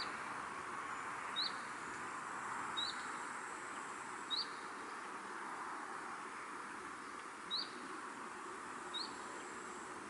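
A small bird repeating a short, sharp chirp, six times at intervals of about a second and a half with one longer pause midway, over a steady background hiss.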